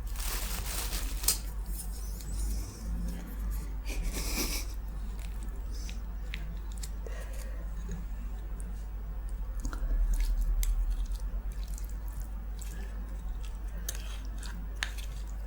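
Close-miked eating of soft, saucy Indian food such as dal, rice and curry: wet chewing with many small mouth clicks and smacks, over a steady low electrical hum.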